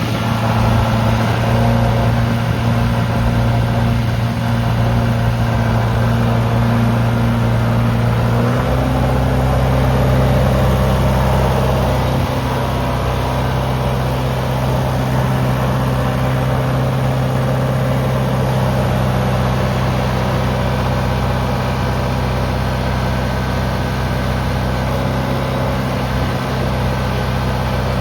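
John Deere 2640 tractor's four-cylinder diesel engine running steadily at idle, its note shifting slightly about eight seconds in.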